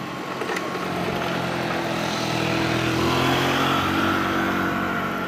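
Keisei electric train passing, its motors giving a whine of several pitched tones over running noise, growing louder to a peak about three seconds in and then easing off.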